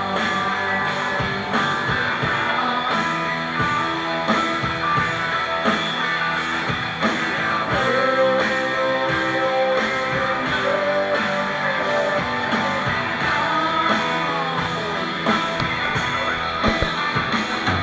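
Rock band playing, electric guitar to the fore over drums, with a bent guitar note held for a few seconds about eight seconds in.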